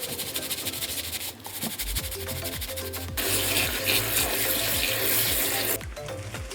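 Background music with a steady beat and bassline. From about three seconds in to near six seconds, a loud rush of running water, like a tap or shower spray, rises over it and then cuts off.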